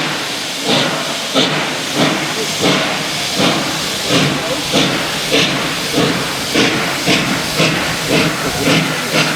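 Ol49 steam locomotive working under steam: steady regular exhaust chuffs, about one and a half a second and quickening slightly, over continuous steam hiss.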